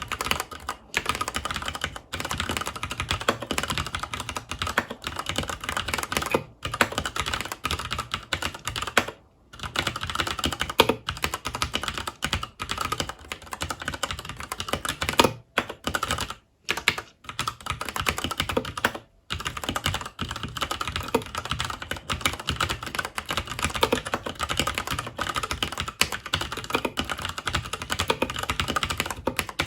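Continuous fast typing on a FILCO Majestouch 2 Hakua tenkeyless mechanical keyboard with Cherry MX Brown switches: a dense run of key clicks and clacks, broken by a few short pauses.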